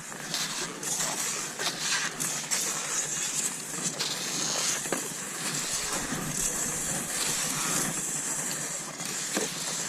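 Cross-country skis sliding over snow: a steady swishing hiss with uneven surges and a few short crunches.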